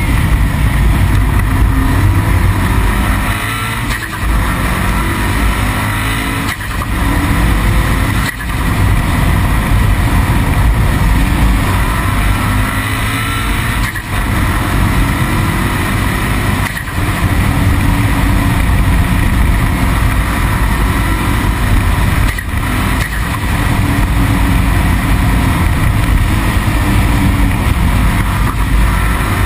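Car engine under hard acceleration at speed, its revs climbing and dropping back several times as it shifts gear, over heavy wind and road noise.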